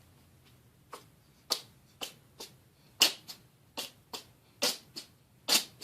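A series of about a dozen sharp clicks at uneven intervals, some much louder than others.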